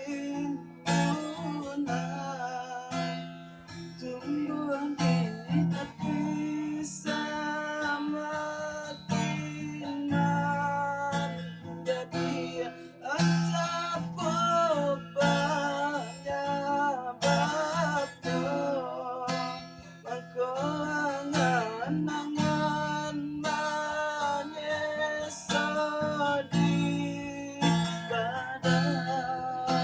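Acoustic guitar music: an instrumental introduction of plucked and strummed guitar playing a wavering melody over steady bass notes.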